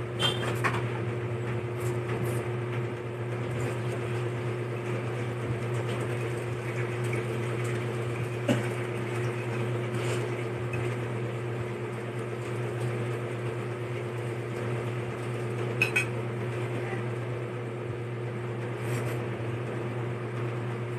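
A steady mechanical hum, with a few short clicks of utensils against a dish scattered through it.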